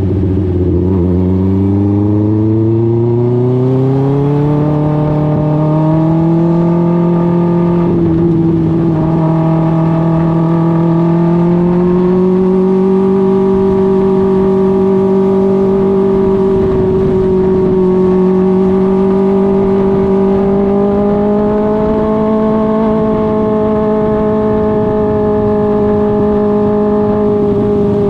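Dwarf race car's Suzuki GSX-R 1000 inline-four motorcycle engine running at speed on a short asphalt oval. Its pitch dips briefly at the start and climbs over the next few seconds, then holds a steady, slowly rising note.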